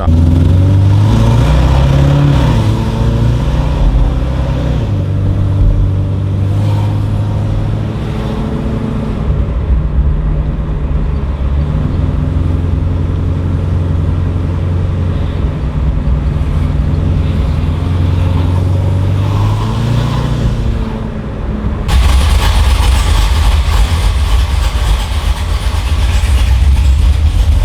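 Chevrolet LT1 6.2 L V8 with a stage 1 performance cam and catless headers, running with a deep rumble, its engine note rising and falling several times as it is revved. About three quarters of the way through, the sound turns suddenly louder and harsher.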